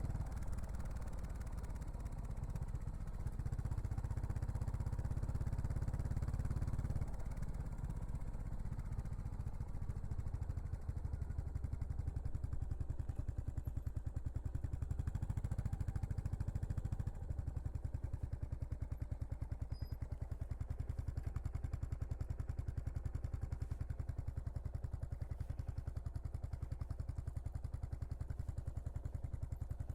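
Yamaha SR400's air-cooled single-cylinder four-stroke running through a Prunus aftermarket muffler, a low exhaust note of evenly spaced pulses. It steps down in level about 7 seconds in and again about 17 seconds in, then settles into a steady, even beat.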